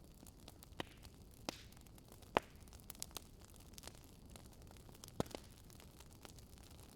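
Wood fire crackling softly: a low steady hiss with scattered sharp pops and snaps, the loudest about two and a half seconds in and again a little after five seconds.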